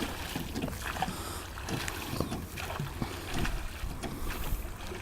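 A narrow boat being rowed: the rowing strokes dip into the water with irregular splashes and light knocks, and wind rumbles on the microphone.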